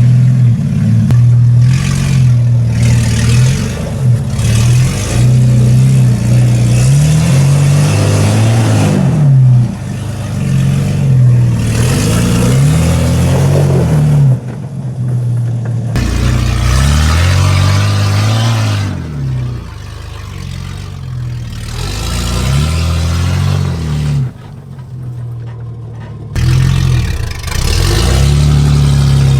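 Nissan GQ Patrol's carburetted TB42 straight-six, running with no exhaust, revved up and down again and again in short pulls as the four-wheel drive crawls over rocks.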